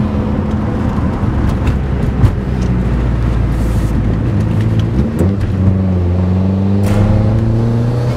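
Holden Astra turbo's four-cylinder engine heard inside the cabin, pulling steadily, then after a brief dip about five seconds in rising in pitch as it accelerates. A single thump sounds about two seconds in.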